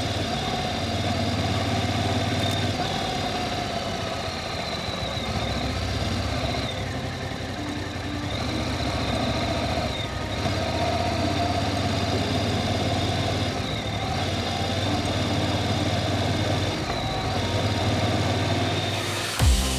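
Voge DS625X motorcycle engine running steadily, its note shifting a few times. Music with a beat starts abruptly right at the end.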